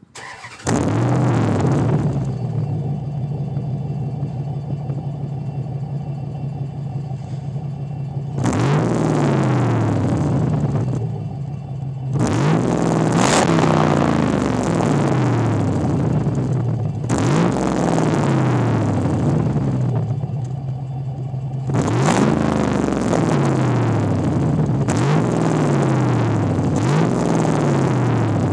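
Dodge Durango's 5.7 Hemi V8 starting warm about a second in and idling through a muffler with hardly any internals and a 5-inch oval tip. The throttle is blipped six times, each rev rising and falling back to idle.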